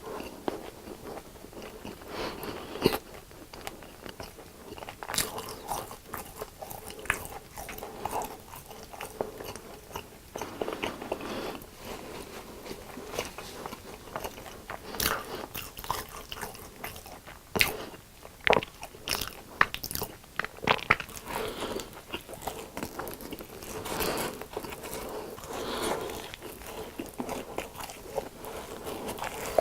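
Close-miked crunching bites and chewing of crispy fried food, with irregular crunches throughout and several loud, sharp bites.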